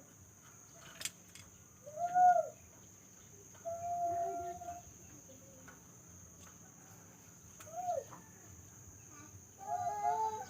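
A cage bird calling in separate pitched calls over a steady high hiss. A short call rises and falls about two seconds in and is the loudest; a held whistled note of about a second comes near the middle; another short rising-and-falling call follows; a longer, more complex call comes near the end.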